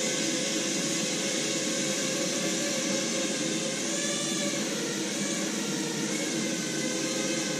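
ARDU PARROT quadrotor's electric motors and propellers whirring steadily in flight, the whine rising and falling in pitch around the middle as the motors change speed.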